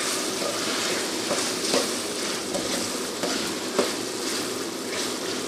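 Boneless chicken pieces sizzling in hot oil in an aluminium pot with ginger and garlic, stirred with a spatula that knocks and scrapes against the pan a few times; the clearest knocks come a little under 2 seconds in and near 4 seconds.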